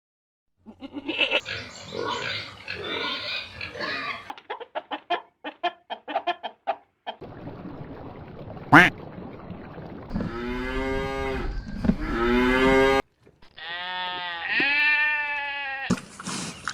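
A run of farm-animal calls joined by hard cuts. First comes a rough, noisy stretch, then a rapid series of short grunting calls and a sharp click. Near the end come two long, pitched, wavering calls that rise and fall.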